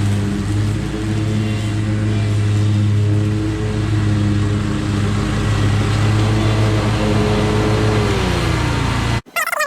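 Lawn mower engine running steadily under load in thick wet grass, its pitch falling about eight seconds in before the sound cuts off abruptly. High squeaky chirps follow right at the end.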